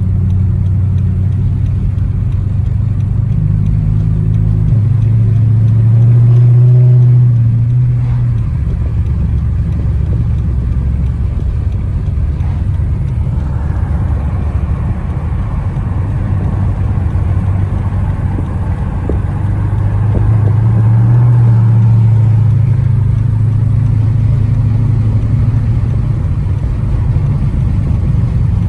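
Car engine and road noise heard while driving, a steady low drone that swells twice as the car speeds up.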